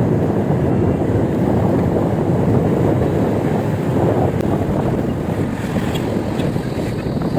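Wind buffeting a phone's microphone during an e-bike ride: a steady, loud, low rush of noise.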